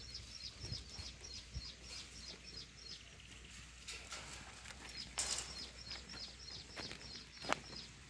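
A small bird chirping in quick, repeated high notes, about four a second, with a pause in the middle. A short rustling hiss about five seconds in and a sharp click near the end.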